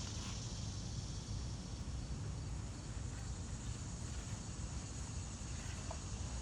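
Steady outdoor background noise: a low rumble under a high, even hiss, with no distinct knocks or tool strikes.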